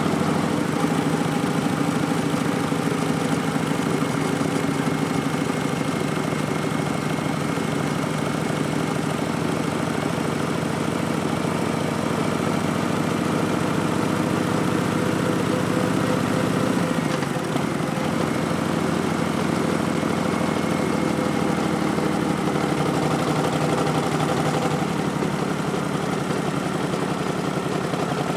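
Harley-Davidson Street Bob's Milwaukee-Eight V-twin running steadily under way through a Vance & Hines Twin Slash slip-on exhaust. The engine note dips and changes briefly about two-thirds of the way through.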